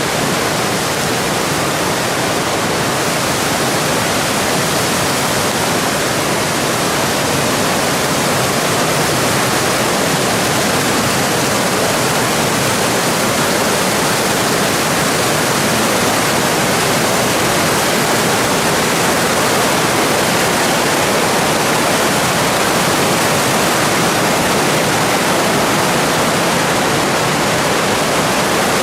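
Steady rush of a mountain stream's water running over rocks.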